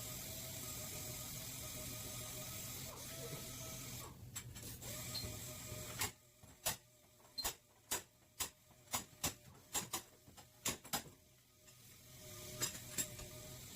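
About a dozen sharp taps, roughly two a second, from sheet-metal repair on a car's back panel. Before and after them there is a steady machine hum with a thin high whine.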